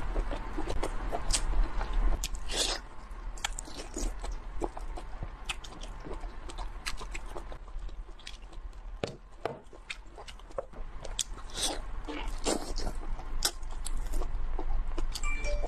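Close-miked eating sounds of someone biting and chewing spicy whole octopus: a run of irregular wet smacks and clicks, several a second, over a low steady hum.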